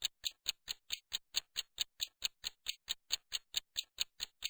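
Clock-like ticking sound effect, an even run of sharp ticks at about four to five a second, timing a pause.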